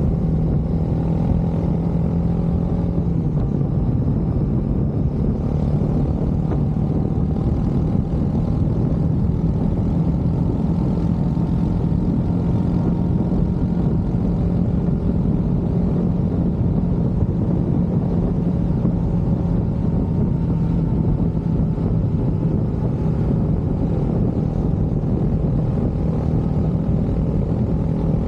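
Motorcycle engine running at a steady cruising speed, a continuous drone whose pitch drops slightly about three seconds in and then holds.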